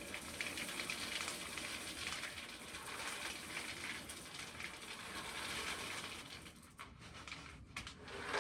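Shelled corn kernels being poured out of a pail, a steady rattling hiss of grain that thins out and stops in fits near the end.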